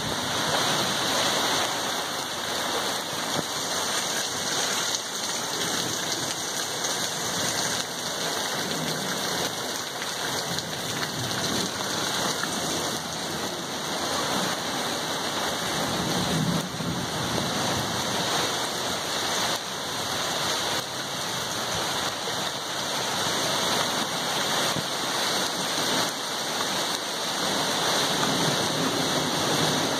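Heavy rain pouring steadily onto trees, leaves and ground in a thunderstorm, with a low rumble of thunder about halfway through and another near the end.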